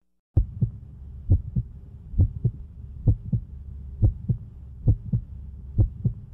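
A heartbeat going lub-dub, slow and steady: seven paired low thumps, each pair a little under a second apart, over a low steady hum. It starts suddenly out of silence.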